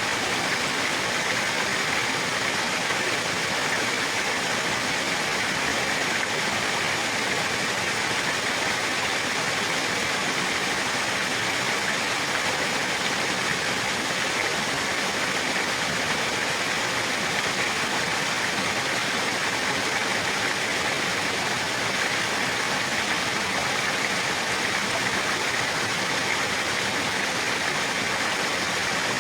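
Running water rushing steadily, an unbroken even hiss with no change in level.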